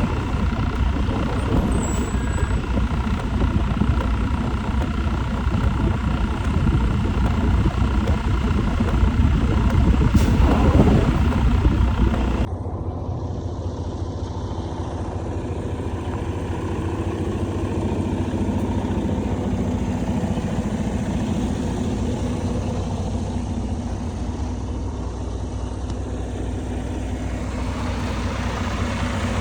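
A vehicle driving, with steady engine and road noise. About twelve seconds in, the sound changes abruptly to a quieter, steady low hum with much less hiss.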